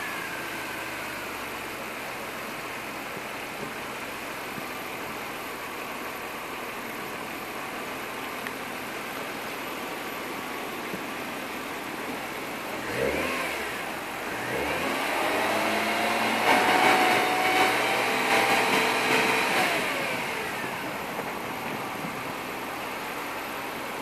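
BMW E36 M3 Evo's 3.2-litre straight-six idling roughly, a rough, hunting tickover. About halfway through the revs rise and drop back once, then rise again and stay up for about five seconds before falling back to idle.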